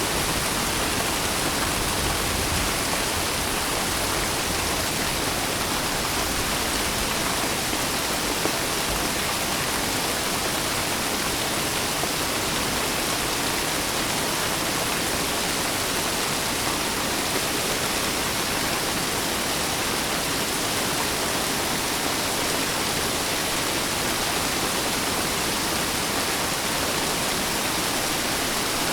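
Steady heavy rain, a dense even hiss with no separate drops or thunder standing out.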